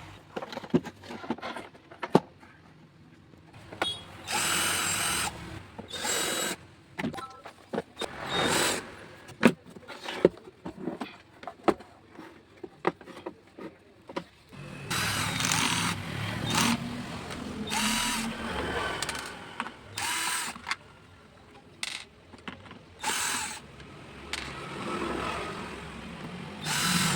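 A power drill run in several short bursts, between sharp clicks and knocks of tools and parts being handled, while an induction cooktop is opened up for repair.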